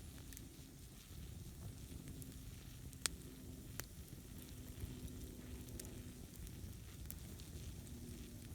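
Campfire burning, with a low rumble and scattered sharp crackles and pops, the loudest about three seconds in.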